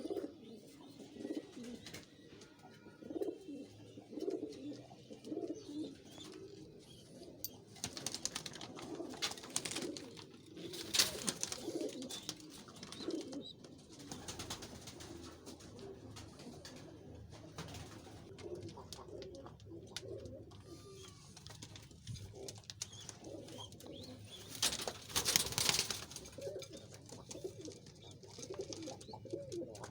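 Domestic pigeons, Sherazi and khal breeds, cooing over and over in low rolling calls. Louder noisy bursts break in around eight to thirteen seconds in and again around twenty-five seconds.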